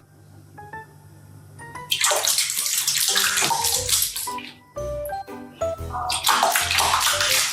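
Rushing water in two spells, the first about two seconds long and the second shorter near the end, over background music of short plucked notes.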